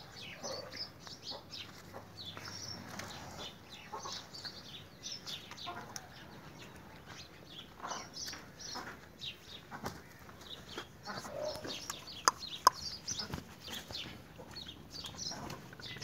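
Birds chirping faintly, with many short high calls scattered throughout. Two sharp knocks close together about three-quarters of the way in.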